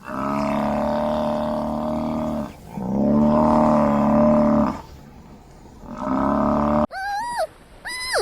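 A large animal giving three long, drawn-out, steady calls, the second the loudest. About seven seconds in, a different animal follows with two short, high calls that swoop up and down.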